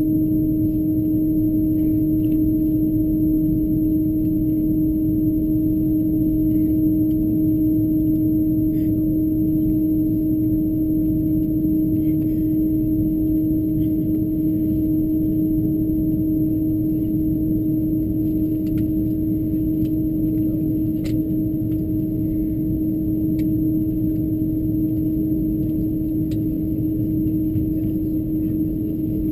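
Steady cabin noise inside an Airbus A330-223 at taxi, with its Pratt & Whitney PW4000 engines at idle. Under the rumble runs a constant low hum, with a faint high whine above it and a few light ticks and rattles scattered throughout.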